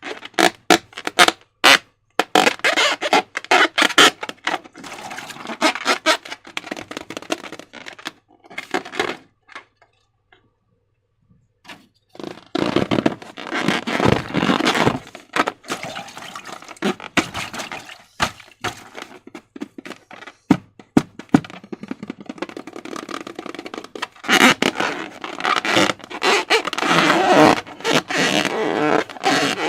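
Slime being squished and worked by hand, with wet crackles and many sharp clicks, and a pause of about two seconds a little before the middle.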